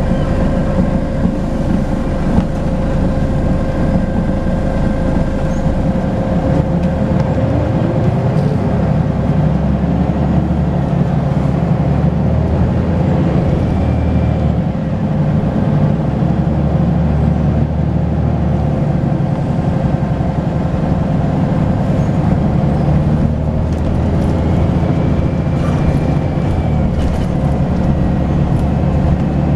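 Volvo B10BLE bus's turbocharged diesel engine running under way with a steady turbo whistle, the engine note rising about seven seconds in.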